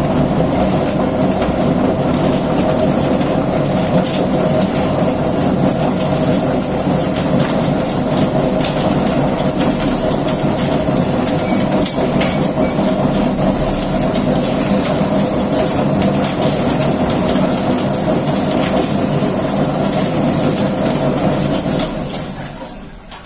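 Chicken feather plucker machine running steadily, with a constant hum and high whine, then shutting off and winding down near the end.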